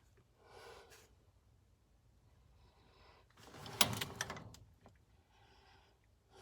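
A person breathing heavily in slow, audible breaths, with a short clatter of knocks and rattles about three and a half seconds in, the loudest thing heard.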